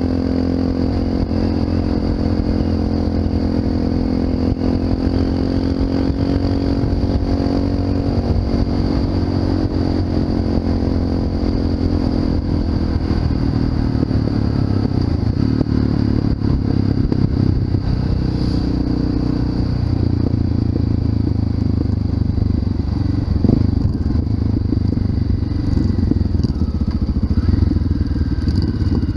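Honda FMX 650 supermoto's single-cylinder engine through an Arrow aftermarket exhaust, running under way. The pitch falls as the revs drop at the start, holds steady for a stretch, then settles lower from about halfway.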